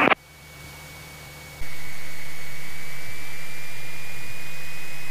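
Aircraft radio channel hissing, a steady loud hiss with a faint high whine that creeps up in pitch. It cuts in suddenly about a second and a half in, after a short quieter stretch, as the channel opens ahead of the next transmission.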